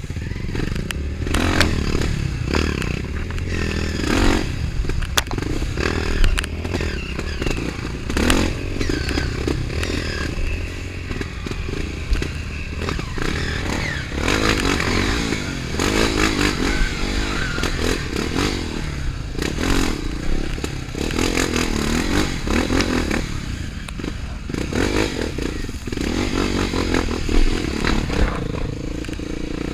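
Trail motorcycle engine running and revving up and down, with frequent clattering knocks and scrapes.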